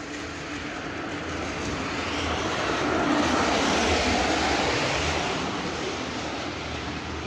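Rushing noise of a passing vehicle that swells to its loudest about halfway through and fades again, over a steady low hum.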